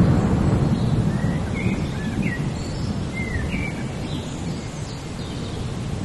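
A low thunder rumble, loudest at the start and easing off, over steady rain. A bird calls a string of short chirps through the middle.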